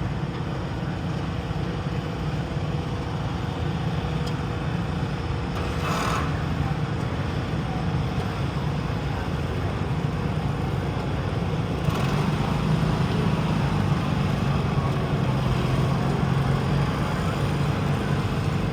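Garden tractor engine running hard under load while pulling a weight sled down the track, a steady drone that grows louder from about twelve seconds in.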